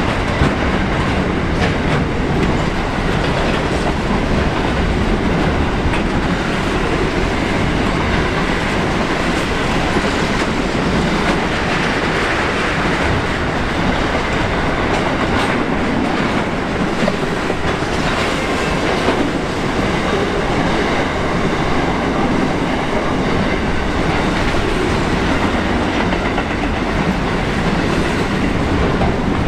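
Container freight train's wagons rolling steadily past: a continuous noise of steel wheels on rail, with occasional sharp clacks.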